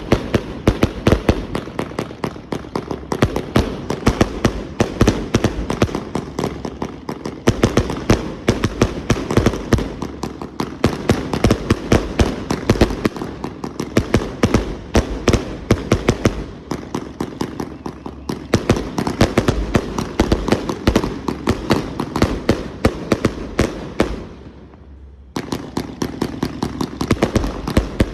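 HLF 'Make it Rain' 168-shot firework cake firing: a rapid, continuous volley of shots, several a second. About three-quarters of the way through there is a brief lull of about a second before the volley resumes.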